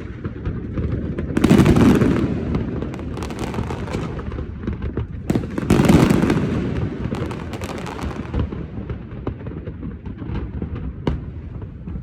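A fireworks display: a dense barrage of bangs and crackling, with two big booms, about a second and a half in and about six seconds in, each trailing off in a rumble. The crackle thins out toward the end.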